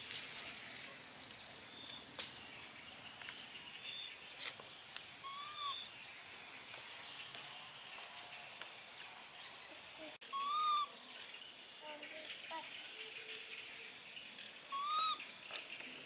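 A bird repeating the same short rising-and-falling call three times, about five seconds apart, over a faint steady high-pitched hum.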